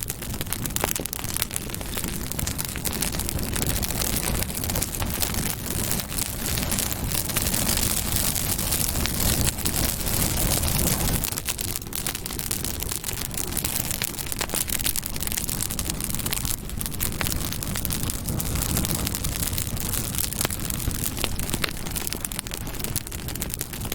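Campfire burning steadily, with a constant crackle of small pops and snaps over a low rush of flame.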